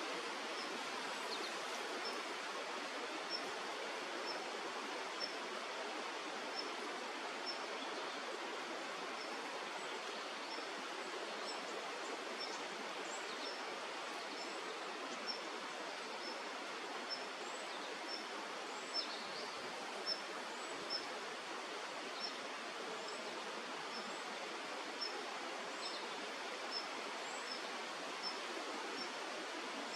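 Steady rush of flowing river water, with a small bird repeating a short high chirp roughly every three-quarters of a second throughout.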